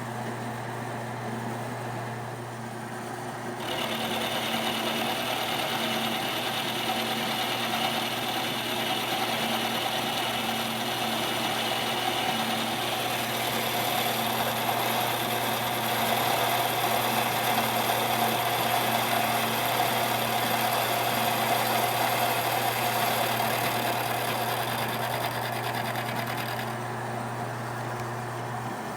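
Index Model 40H vertical milling machine running with a steady motor hum. From about four seconds in, the cutter takes a light, shallow cut on the workpiece, adding a louder, noisy cutting sound with a steady whine, which stops a couple of seconds before the end.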